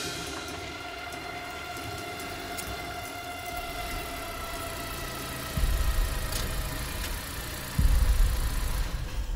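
Honda CR-V SUV's engine running as it pulls into a driveway, under a fading held tone. Two deep low rumbles come in, about halfway through and near the end.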